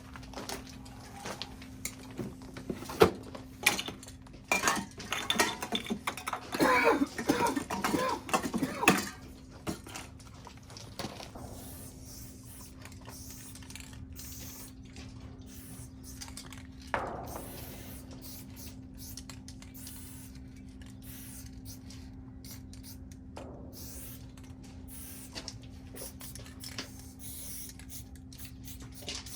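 Hard objects clinking and clattering, busiest in the first third, over a steady low hum; later two single knocks ring out briefly.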